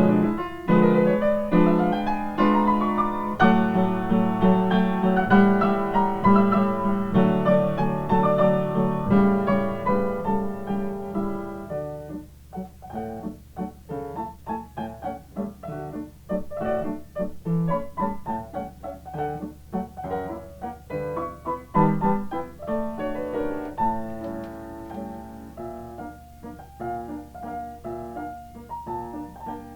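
Yamaha upright piano playing a waltz: a loud passage of full chords and running figures, turning quieter about twelve seconds in to short, detached chords.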